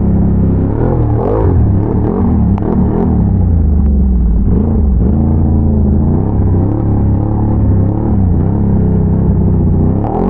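Can-Am Renegade ATV's V-twin engine running under load on a trail ride, the revs rising and falling repeatedly as the throttle is worked, steadier for a few seconds in the middle.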